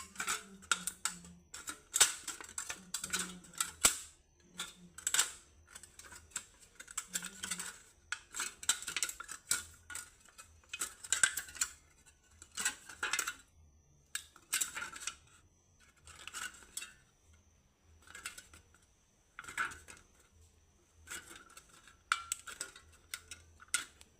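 Thin aluminium from a cut-up beer can crinkling and crackling as it is crushed and bent by hand, in short irregular bursts about a second apart.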